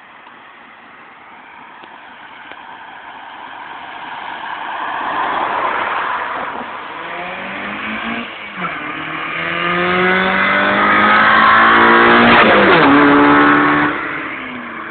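1998 Honda Civic EX's four-cylinder engine with a straight-piped exhaust, accelerating hard. It grows louder and rises in pitch, drops briefly about eight seconds in as it shifts gear, then climbs again to its loudest before falling off near the end.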